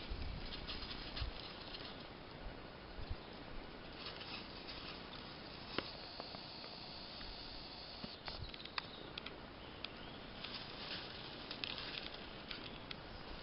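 Spring forest ambience: a faint steady hiss with scattered short rustles and a few sharp clicks, the clearest just before 6 seconds in and a cluster around 8 to 9 seconds.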